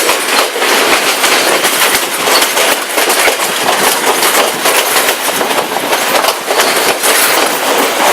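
Passenger train carriage running along the track: a loud, steady rattle of wheels on rails with many sharp clacks throughout.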